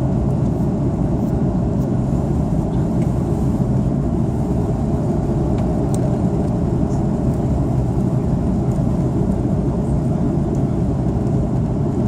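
Steady low roar of an Airbus A330-300 in flight, engine and airflow noise heard inside the passenger cabin.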